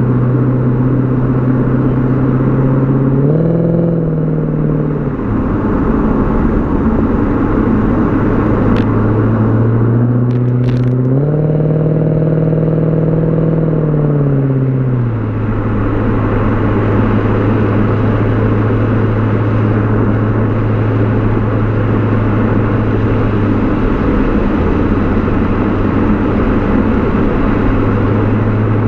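BMW E39 540i's V8 exhaust while driving, over steady road noise. The engine note climbs briefly twice under light acceleration, about three seconds in and again around ten seconds in, then settles into a steady low drone at cruise.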